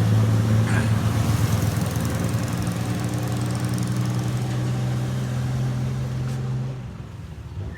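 An engine idling steadily at an even pitch, then dropping away a little before the end.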